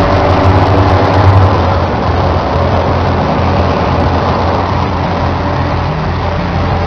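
Loud, steady engine-like rumble: a low mechanical hum under a dense haze of noise, easing a little after about two seconds.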